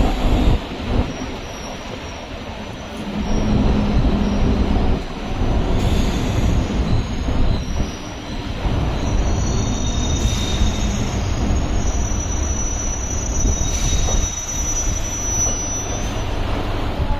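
Chennai MRTS electric suburban train running on the track with a steady low rumble; its wheels squeal in thin, high, sustained tones from about nine seconds in until near the end.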